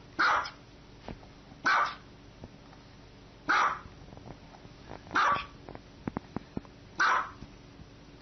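Small white dog barking: five single high, sharp barks, evenly spaced about every second and a half to two seconds.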